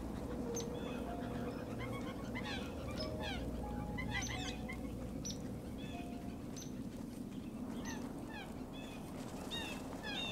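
Birds calling: many short, quick falling chirps from several birds, with a few brief lower single notes, over a steady low background hum.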